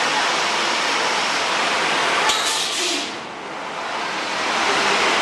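Loud, steady rush of a staged flood pouring through the set, like a waterfall. It dips briefly about three seconds in, then builds back up.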